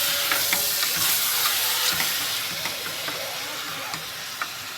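Meat sizzling in hot ghee in a pot, with a few sharp clicks of a spoon turning it. The meat is giving up its water, and the sizzle fades somewhat toward the end.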